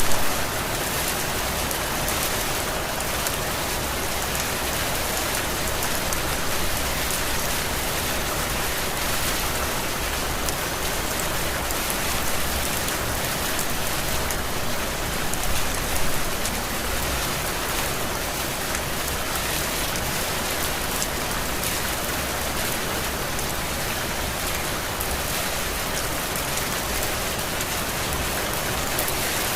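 Heavy rain falling steadily, with brief louder spells at the start and about halfway through.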